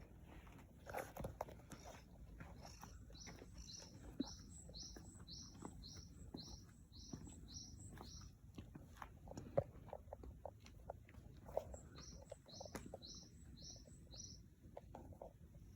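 A small songbird calling in two long runs of short, high, evenly spaced chirps, about three a second. Faint scattered clicks and rustles lie underneath.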